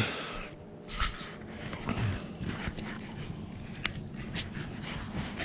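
A loud bump right at the start, then footsteps and rustling as a person walks, with a few sharp clicks.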